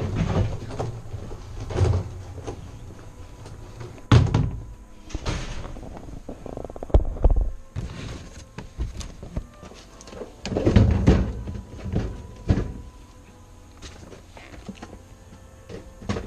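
Irregular knocks and thuds of gear being handled and carried aboard a boat, with a sharp knock about four seconds in.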